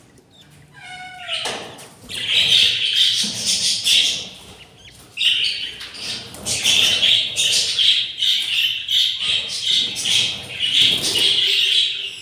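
Budgerigars chirping and squawking in a dense, rapid chatter, after a short call that falls in pitch about a second in.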